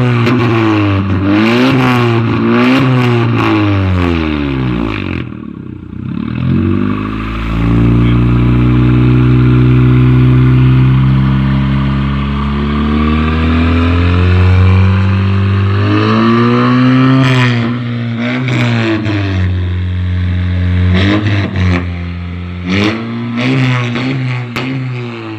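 Honda Civic 1.5-litre turbo inline-four revving through an aftermarket Brexx cat-back muffler: a run of quick throttle blips, a drop and a steady hold at higher revs for several seconds, then more sharp revs near the end.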